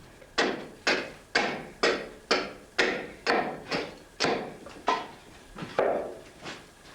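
A steady series of hammer blows on wood, about two a second, each with a short ringing tail, the later ones a little weaker.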